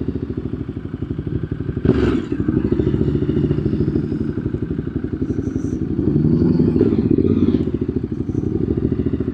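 Ducati Multistrada's V-twin engine running at low revs, with one knock about two seconds in.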